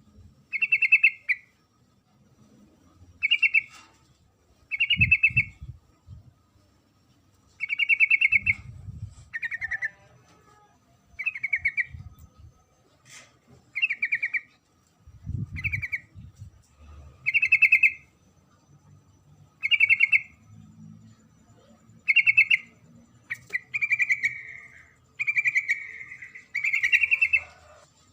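Female yellow-vented bulbul (trucukan) giving short, buzzy chattering calls, one about every one and a half to two seconds. This is the female's call to a male, used as a lure for males.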